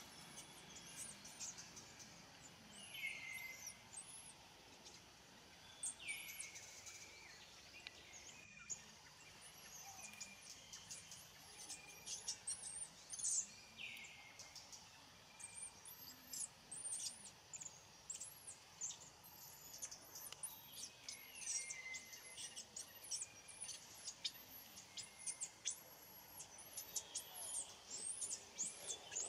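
Birds chirping: many short, very high chirps in quick succession, with a lower falling call every several seconds.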